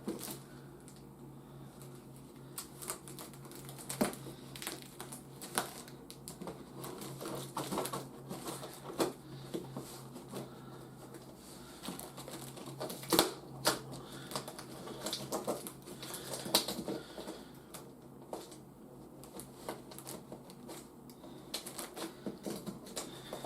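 Irregular clicks, taps and rustles of a toy's cardboard and plastic packaging being opened and handled by hand, over a faint steady low hum.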